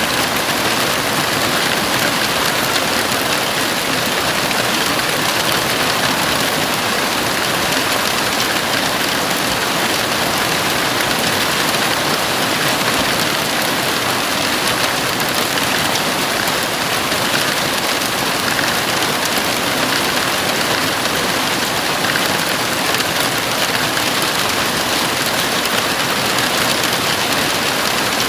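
Heavy rain drumming steadily on a house roof, a dense, even hiss with no let-up.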